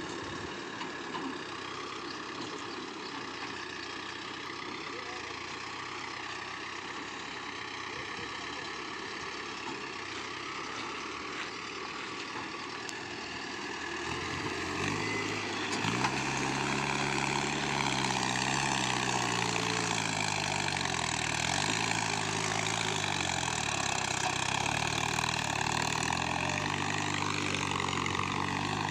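Mahindra Arjun 605 tractors' diesel engines running while hauling loaded sugarcane trailers. About halfway through an engine grows closer and louder, its pitch rising and falling with the throttle.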